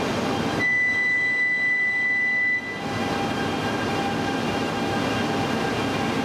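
Steady running noise of a coupled E2/E3 series Shinkansen trainset standing at the platform. A single high steady tone sounds for about two seconds near the start, then stops.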